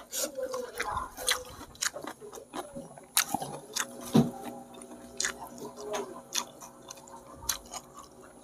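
A person chewing and smacking their lips while eating tender stewed goat-head curry meat, with a run of short sharp mouth clicks, the loudest about four seconds in.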